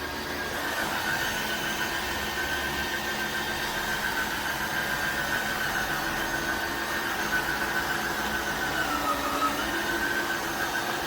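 Tineco iFloor 5 Steam wet-dry floor cleaner running, a steady motor whine over a noisy hiss; the pitch dips briefly about nine seconds in.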